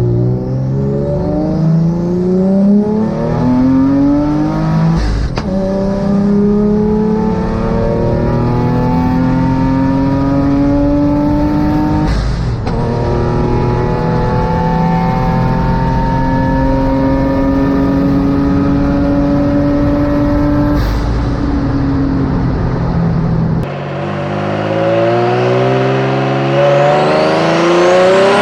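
Car engine in a twin-engine Mazda MX-3 pulling hard through the gears: the pitch climbs steadily in each gear and drops back at three upshifts. Near the end the sound changes abruptly and another climb begins.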